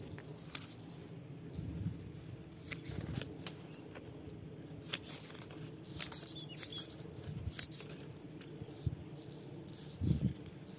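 Scattered sharp clicks and snaps, a few seconds apart, from hand pruning of a durian tree's branches and leaves.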